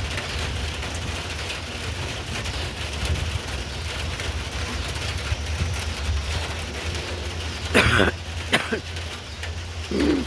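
Steady rain with wind rumbling on the microphone. Two sharp knocks come about eight seconds in, and a short cough comes at the very end.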